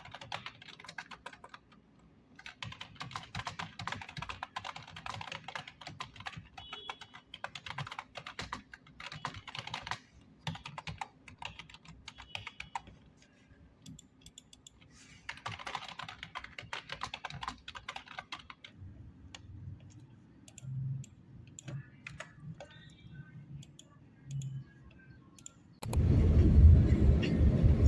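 Computer keyboard typing in quick bursts with short pauses between them, later thinning to scattered key clicks and a couple of soft thumps. Near the end it cuts suddenly to a much louder, steady low rumble.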